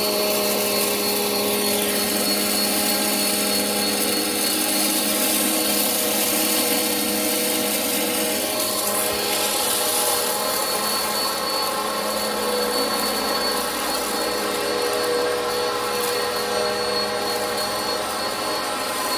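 Eureka upright vacuum cleaner running steadily: a motor whine over a broad airflow hiss, its pitch shifting slightly about twelve seconds in.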